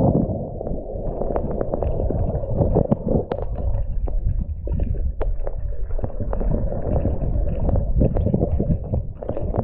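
Wind buffeting the microphone in a blizzard: a gusting, uneven rumble with many small clicks and knocks throughout.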